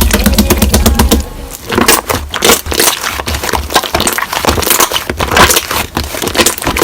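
Slime being squeezed and pressed by hand, making a dense run of crackling, popping clicks.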